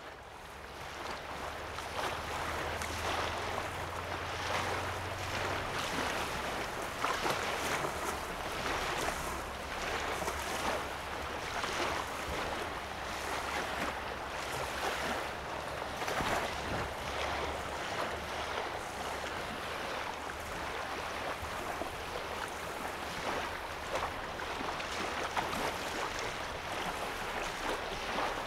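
Small waves lapping and washing on the sandy shore of a calm lake, a steady wash of water with frequent small splashes, fading in over the first two seconds. A low rumble sits underneath for the first two-thirds.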